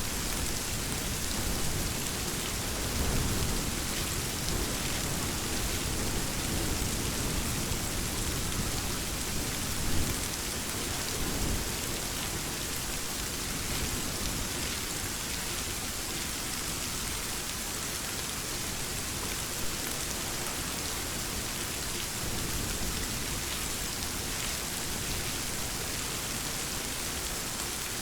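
Steady heavy rain falling, with low thunder rumbling a few seconds in and a brief louder peak about ten seconds in.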